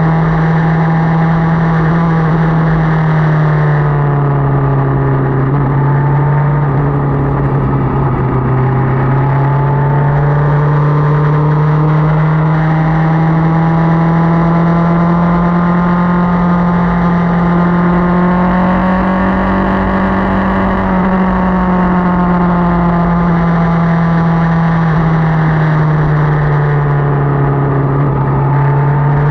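Motorcycle engine running under way, a steady drone whose pitch drops about four seconds in, climbs slowly through the middle and falls again near the end.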